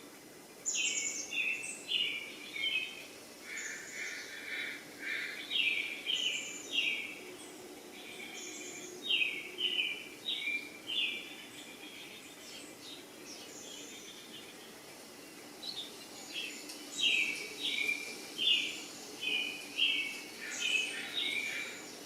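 A bird chirping in quick runs of short, high notes, with pauses between the runs, over steady faint background noise.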